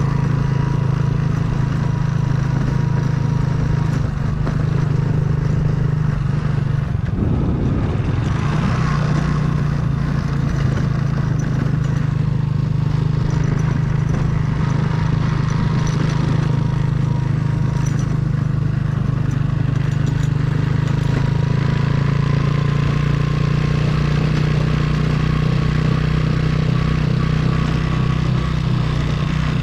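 Trail motorcycle engine running at a steady pace, with a brief change in engine note about seven seconds in before it settles again.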